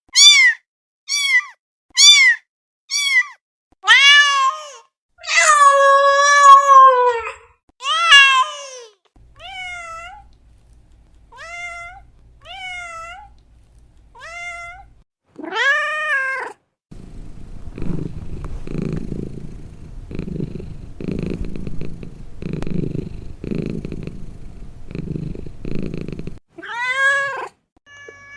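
Domestic cats meowing: a run of short meows, then longer drawn-out ones and a few fainter meows over a low hum. Then about nine seconds of steady pulsing purring, and one more meow near the end.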